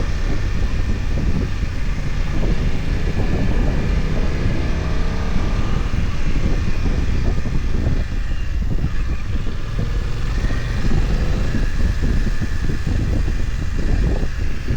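BMW F900XR's parallel-twin engine running under way, its pitch rising and falling with the throttle, over a heavy low rumble of wind and road noise.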